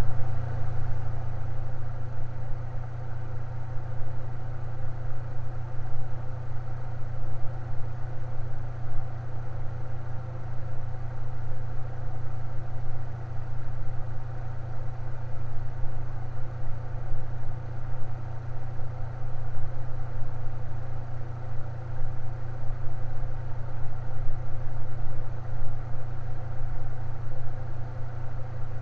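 Electric fan running steadily, a strong low hum with fainter steady tones above it.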